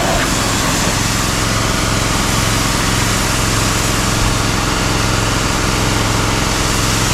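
Small engine of a high-pressure washer running steadily, with a constant hiss from the spray.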